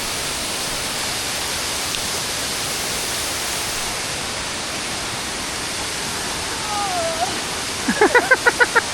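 Waterfall rushing steadily in a cloud forest. Near the end, a person's voice comes in briefly with a quick run of short pulses.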